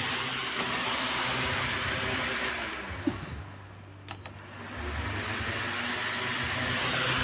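Electric stand fan blowing with a steady whoosh of air. A short high beep sounds about two and a half seconds in and another about a second and a half later, and between them the air noise dies away and then builds back up, as when the fan's speed setting is changed or it is switched off and on.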